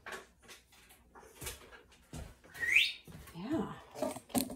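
A pet parrot gives a short, loud, upward-sweeping squawk about two and a half seconds in, followed by a lower, shorter vocal sound, among scattered knocks and clatter.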